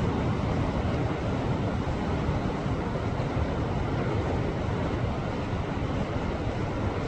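Sea waves surging and washing against rocks on a shoreline, a continuous deep rushing wash with no single breaking crash standing out.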